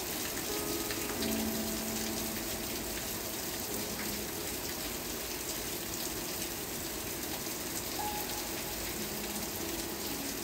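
Steady rain, an even hiss with scattered drop ticks, under faint soft music of long held notes.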